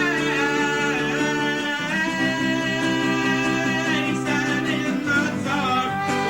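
A man singing over steadily strummed acoustic guitar, the chord changing about two seconds in and again about five seconds in.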